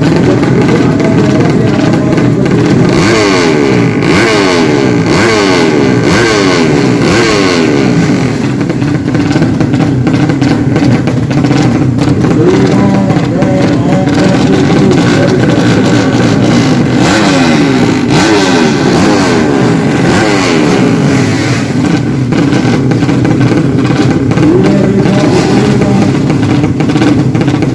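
Several drag-racing motorcycle engines revving loudly at once. Their pitches climb and drop again and again, overlapping, as throttles are blipped and held.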